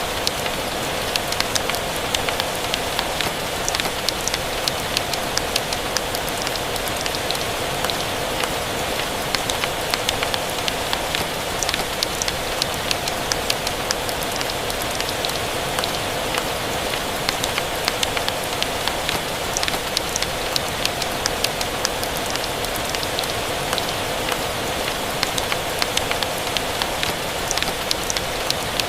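Steady rain, an even hiss, mixed with a fireplace crackling: many small sharp ticks and pops scattered through it.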